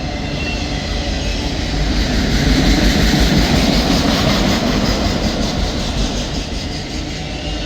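Freight train of empty autorack cars rolling slowly past: a steady rumble of steel wheels on rail that swells in the middle and eases again.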